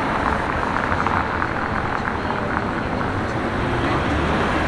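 Steady city street traffic noise: road vehicles' engines and tyres running.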